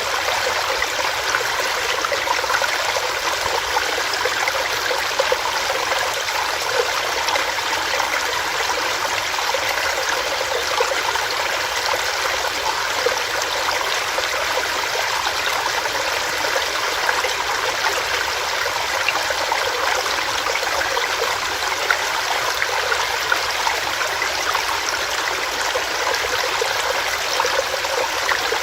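Small stream running over rocks, a steady splashing and gurgling rush with no breaks.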